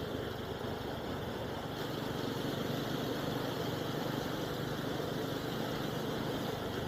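A vehicle engine running steadily with road noise, picked up by the SJCAM SJ10 PRO action camera's built-in microphone.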